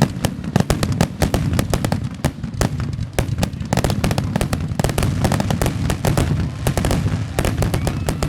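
Fireworks display: a dense, rapid string of sharp crackles and pops from many shells bursting together, over a continuous low rumble of booms.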